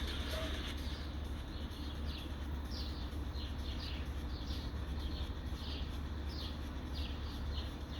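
Repeated short, high chirps, each falling quickly in pitch, about one or two a second, over a steady low rumble.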